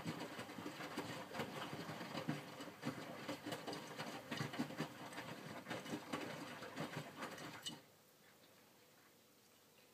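Miele W562 washing machine's drum tumbling wet laundry in the main wash of its minimum iron cycle: a steady run of whirring with many small knocks and slaps of clothes and water. The tumble stops suddenly near the end, leaving a faint hum as the drum pauses.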